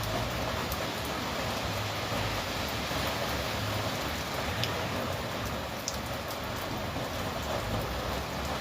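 Steady rain falling on garden plants, a continuous hiss with a few sharper ticks now and then.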